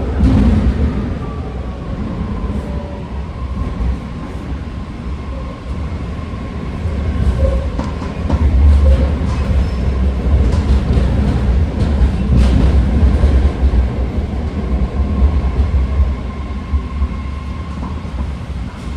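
BART train car riding on the track, heard from inside: a steady rumble with a thin, steady whine through most of it and a few clicks about twelve seconds in.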